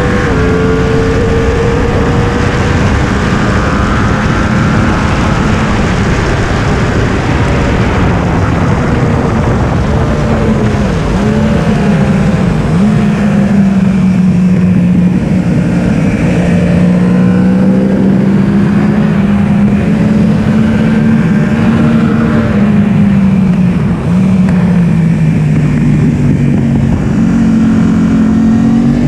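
Yamaha R1 inline-four sport-bike engine running hard on track, its loud note rising and falling with throttle and gear changes, with quick pitch drops at shifts and a brief dip in level about three-quarters of the way through.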